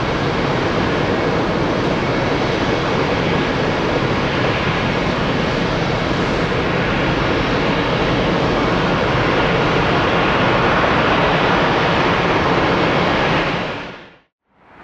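Jet airliner engines heard from the ground, a loud steady rush with no break. It fades out to silence near the end.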